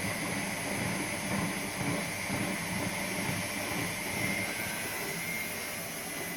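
Washing machine running with a steady mechanical whir, a low uneven rumble under it and a constant high whine.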